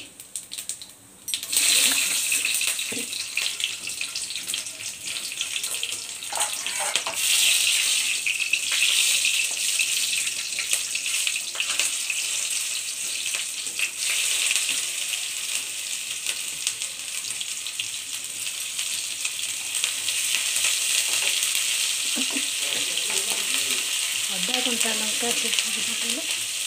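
Chopped ginger, garlic and green chillies sizzling in hot oil with cumin seeds and whole spices in a kadhai. The sizzle starts suddenly about a second and a half in as they go into the oil, then carries on as a steady loud hiss while a spatula stirs them.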